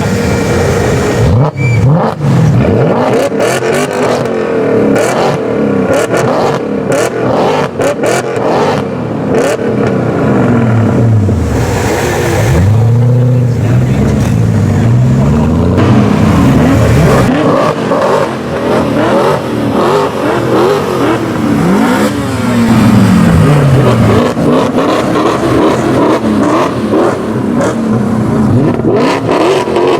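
V8 exhausts of a Mercedes C63 AMG (iPE exhaust) and a BMW E39 M5 (custom exhaust) being revved hard, the engine pitch climbing and falling over and over in quick blips. Sharp cracks come between revs, mostly in the first third and near the end.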